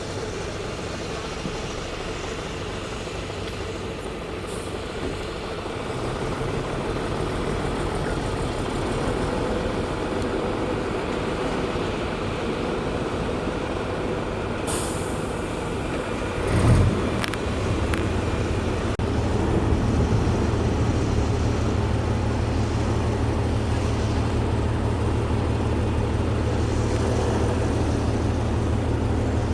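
Diesel engine of heavy road-building machinery running steadily. There is a brief hiss about 15 seconds in and a short thud near 17 seconds, after which the engine runs louder and deeper.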